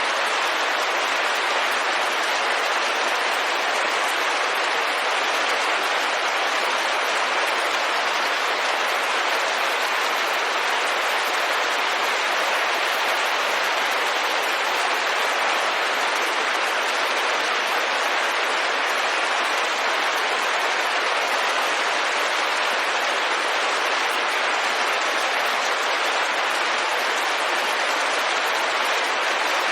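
Steady rain on a window: an even hiss, with no separate drops or thunder standing out and no change in level.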